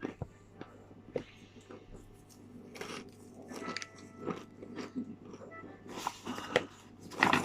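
Close-up biting and crunching of hard baked cornstarch (cornflour) chunks, with crackling chews throughout and the loudest crunch near the end.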